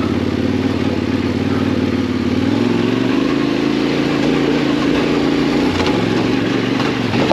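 Yamaha Ténéré 700's parallel-twin engine running under way, its note climbing slightly near the middle and then holding steady.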